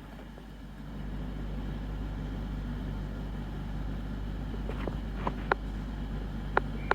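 Class 222 Meridian diesel multiple unit's underfloor diesel engines idling at the platform, a steady low hum that grows louder about a second in. Several sharp clicks come in the second half.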